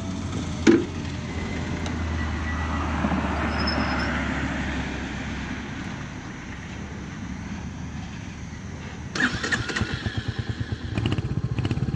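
Royal Enfield Hunter 350's single-cylinder engine starting about nine seconds in, then idling with a rapid, even thump from the exhaust. Before that, a steady low rumble that swells and fades.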